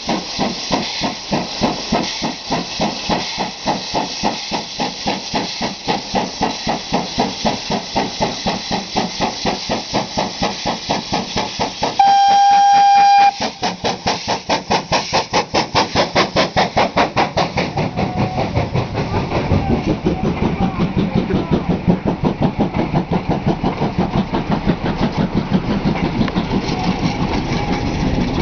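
GWR 56XX 0-6-2 tank steam locomotive working hard uphill, its exhaust beating in a fast, even rhythm, with a banking engine pushing at the rear. About twelve seconds in a steam whistle sounds once for about a second and a half; later the exhaust beats give way to a heavier rumble and clatter of the passing train.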